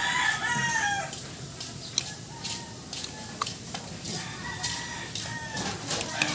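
A rooster crowing, one call running into the first second and another about four seconds in, with a few sharp metallic clicks of hand tools between them.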